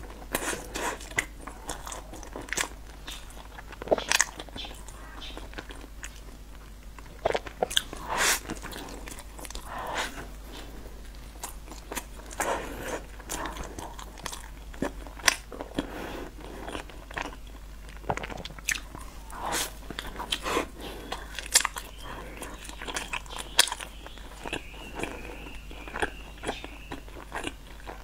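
Close-miked chewing and biting of a chocolate-topped pastry: irregular crunches and sharp mouth clicks throughout.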